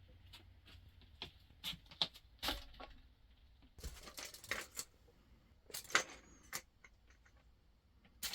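Irregular clicks, taps and brief rustles of objects being handled, the loudest a sharp click about two seconds in and another about six seconds in.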